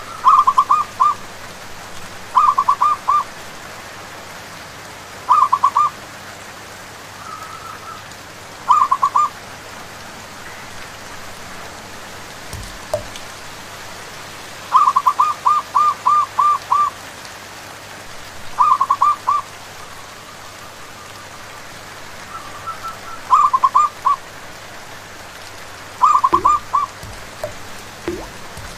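Zebra doves (perkutut) cooing in bursts of quick, staccato notes, a burst every few seconds, over a steady hiss of rain.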